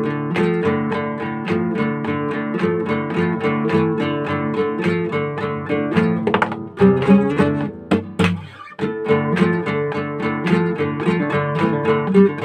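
Acoustic guitar playing a fingerpicked instrumental, a steady run of plucked notes about four a second, with a brief break and a slid note a little after the middle.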